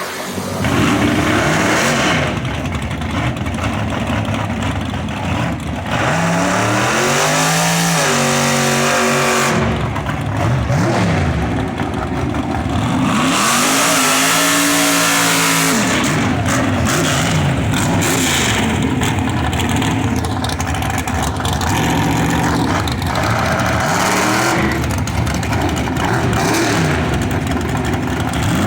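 Drag-racing cars' engines revving and accelerating hard, loud, with the engine pitch climbing and falling again several times.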